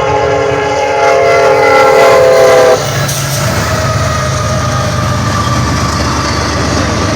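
Train air horn sounding a steady multi-note chord for about three seconds, then cutting off sharply. Under it and after it comes the rumble and wheel clatter of the passing train.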